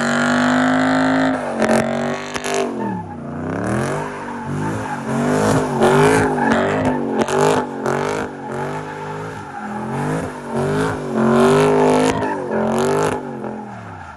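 Supercharged 6.2-litre V8 of a Camaro ZL1 1LE being driven hard, its pitch climbing and falling again and again through quick revs and gear changes.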